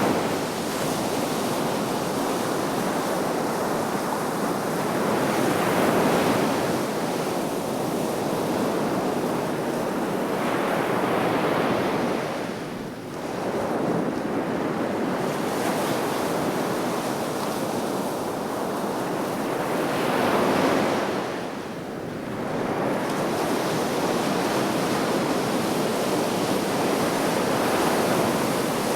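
Sea waves breaking on the shore, a continuous wash of surf that swells and ebbs every several seconds as each wave comes in, with wind on the microphone.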